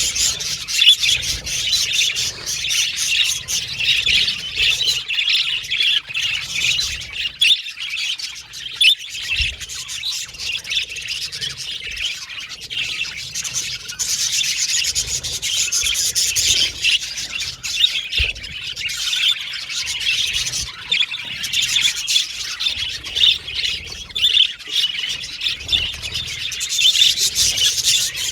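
A flock of budgerigars chirping and chattering continuously, many quick overlapping high-pitched chirps and warbles with occasional squawks.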